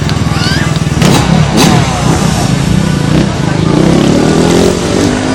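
Motorcycle engines running, with the pitch sweeping up and down as the bikes rev, and a rising rev from about three and a half seconds in.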